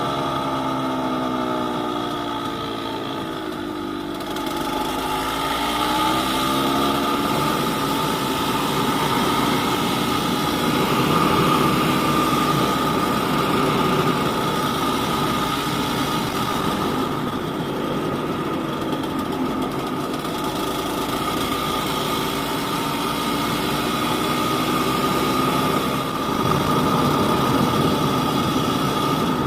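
Yamaha DT200WR single-cylinder two-stroke engine running as the motorcycle is ridden, its revs falling and rising several times with throttle and gear changes.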